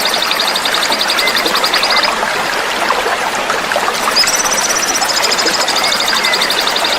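A small songbird's fast pulsed trill, stepping down in pitch, breaking off about two seconds in and starting again a little after four seconds, over the steady rush of flowing water. The trill is a dense, coarse 'fill' song of the kind played to train cage songbirds.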